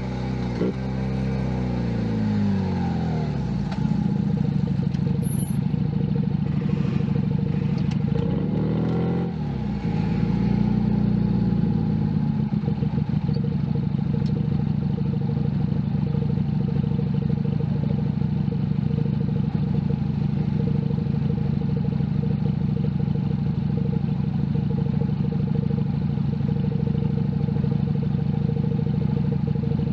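Junak M11 Cafe's 125 cc engine under way on the road. The revs fall over the first couple of seconds, dip and climb again about nine seconds in, then hold steady at a constant cruise for the rest.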